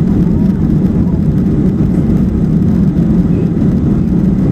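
Jet airliner's engines at takeoff power heard from inside the passenger cabin: a loud, steady low rumble.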